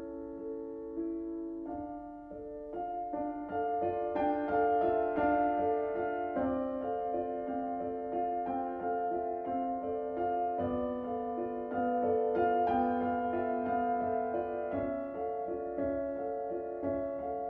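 Slow piano music, held notes and chords changing every second or so.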